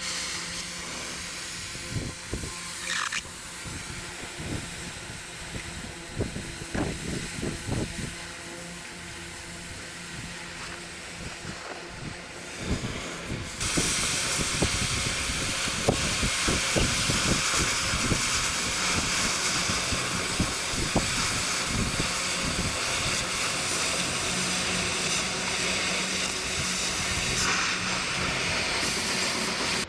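Scattered metallic knocks and clicks over a hissing background, then, about fourteen seconds in, a louder steady hiss like a compressed-air spray that runs on to near the end.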